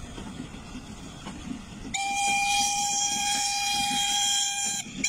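Railway locomotive horn sounding one long steady blast of nearly three seconds, starting about two seconds in, then a short blast near the end, over the low rumble of the running train.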